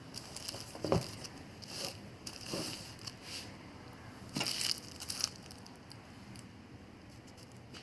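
Handling noises: a sharp knock about a second in, scraping and crinkling, then a louder burst of rustling with a few sharp clicks about four and a half seconds in, then quieter.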